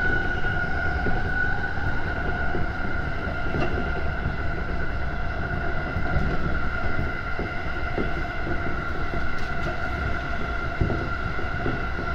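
Electric commuter train heard from inside the passenger car: the motors' whine sinks slowly in pitch over a steady rumble of wheels on the rails, with scattered light clicks.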